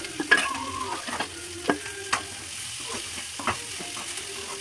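Chopped onions, green chillies, cumin and curry leaves sizzling in hot oil in a pan while being stirred. A spoon knocks and scrapes against the pan about five times.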